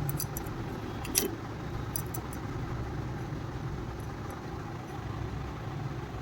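Engine running at a steady idle, with a few light metallic clinks in the first two seconds.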